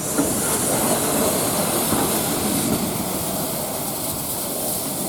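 Steam locomotive hissing steadily, with a low rumble beneath; the hiss eases off a little near the end.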